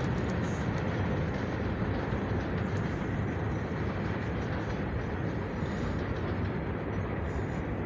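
A freight train rolling past at speed, its wheels on the rails making a steady, even noise with no let-up.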